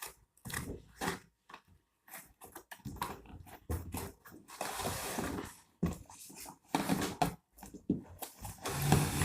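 A cardboard box being opened and its packaging handled: irregular rustling, scraping and knocks, with longer stretches of rustling about halfway through and near the end.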